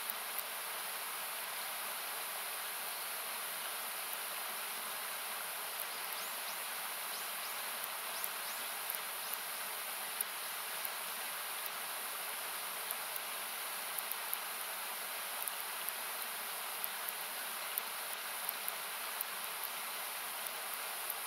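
Steady rushing of a river, thinned by equalisation into a hiss, with the campfire's wood crackling in small sharp pops scattered throughout.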